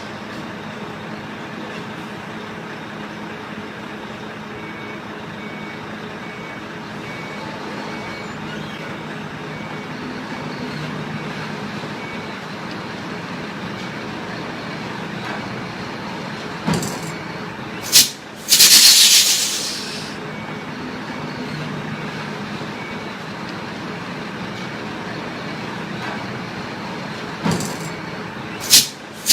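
Heavy truck's diesel engine running steadily, with two loud, sharp hisses of compressed air released from its air brakes, each just after a click or two: one around two-thirds of the way through and one at the very end.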